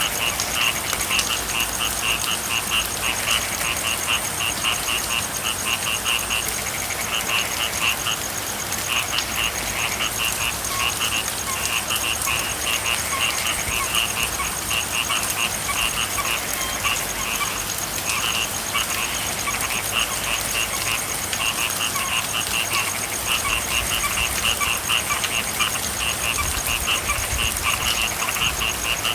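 A chorus of frogs calling in rapid pulsed trills that repeat with short breaks, over a steady hiss of rain.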